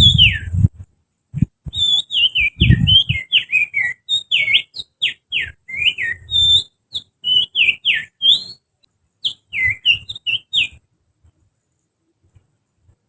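Finger whistling that imitates the song of an oriental magpie-robin: a rapid run of sharp whistled notes sweeping up and down, stopping about eleven seconds in. Low rumbling thumps sound under the whistling in the first three seconds.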